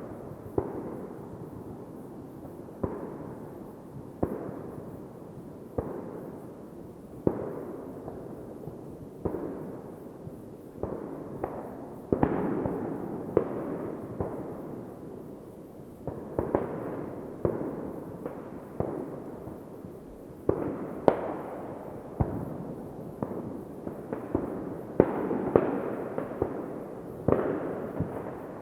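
New Year's Eve fireworks going off: a steady run of sharp bangs, roughly one every second or two, each trailing off into a rumble, over a continuous background rumble of more fireworks.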